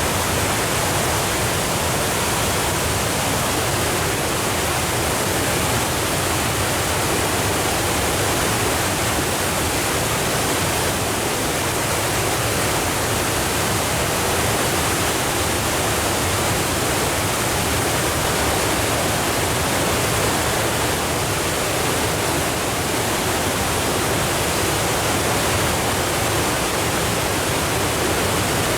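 Steady, loud roar of a waterfall in flood: the Sendai River swollen with muddy floodwater after torrential rain, pouring over Sogi Falls.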